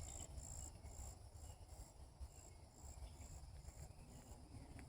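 Faint insect chirping, a high-pitched chirp repeated about twice a second that fades out near the end, over a faint low rumble.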